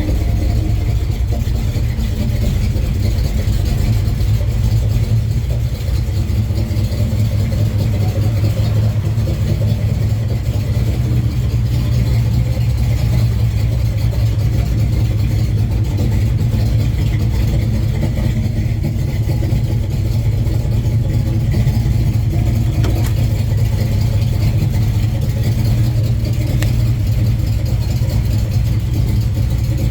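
1970 Chevrolet Chevelle engine idling steadily with a deep, even exhaust note as it warms toward operating temperature after a cold start.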